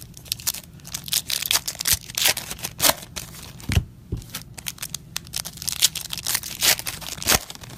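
Trading card packaging and cards being handled: a steady run of short crinkling and tearing rustles, with a few sharper clicks.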